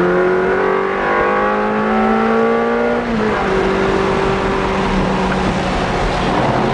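Ferrari 360 Stradale's 3.6-litre V8 heard from inside the cabin, pulling hard with revs rising steadily for about three seconds, then a quick upshift drops the pitch and the engine runs on at a near-steady pitch under load.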